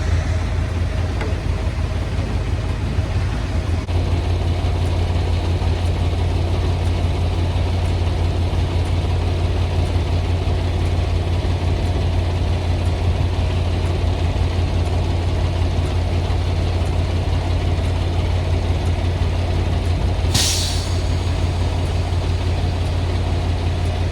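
Semi truck's diesel engine running steadily at low revs. About twenty seconds in, one short, sharp hiss of compressed air from the truck's air brake system.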